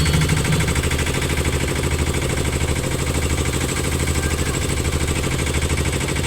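An engine idling steadily, with an even, fast pulsing throb.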